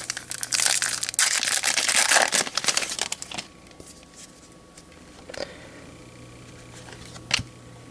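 Wrapper of a 2014 Bowman baseball card pack being torn open and crinkled for about three seconds, followed by quiet with two faint ticks.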